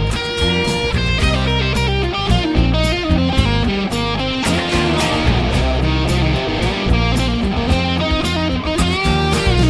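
Fender Player Stratocaster electric guitar playing a continuous run of picked notes and low sustained notes, with a string bend near the end.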